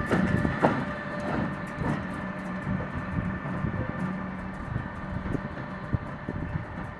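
Train running on the tracks: wheels knocking irregularly over rail joints under a steady whine, growing slowly fainter.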